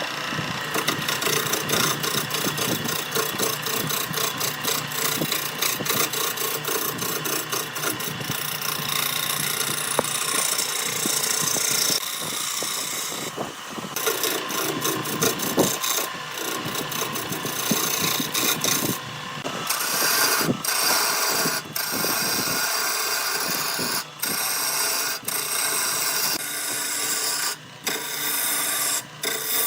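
Wood lathe turning a blank, a turning tool scraping and cutting the spinning wood with a rapid run of ticks and a rasping texture. The sound drops out briefly a few times near the end.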